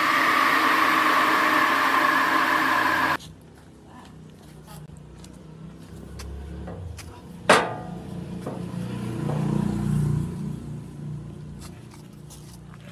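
A woodworking machine's electric motor running steadily and loud, cutting off abruptly about three seconds in. Then quieter workshop handling noise follows, with one sharp knock and a low rumble.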